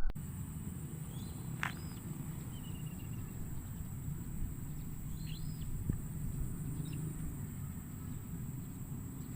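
Open-field ambience: a steady high insect drone over a low rumble, with a few short bird chirps and one brief falling whistle scattered through it.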